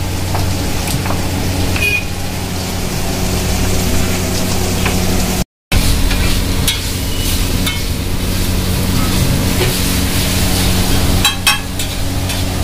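Chicken stir-frying on a flat iron tawa: a steady sizzle with a low hum underneath, and a metal spatula scraping and clicking on the pan in the second half. The sound drops out briefly about halfway.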